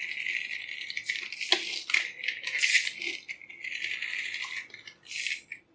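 Small plastic toy motorcycle rattling: an irregular run of quick, light clicks with a couple of short gaps, thinning out near the end.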